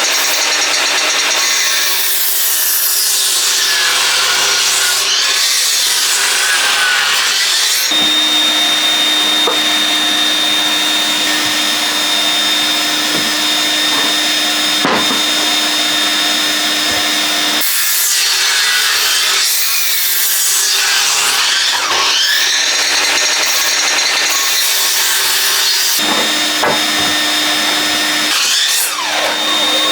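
Electric planer-thicknesser running with dust extraction on, with a steady motor whine. Boards are fed through in several passes, and the cutting noise rises and falls with each one.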